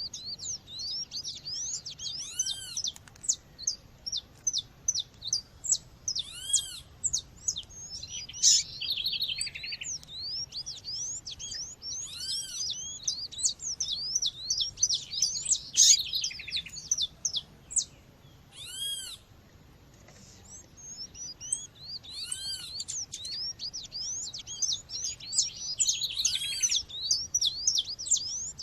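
Female seedeater calling in fast, high chirps, dense and busy with louder flurries, easing off briefly past the middle. Behind it a second bird gives a short arched call every few seconds.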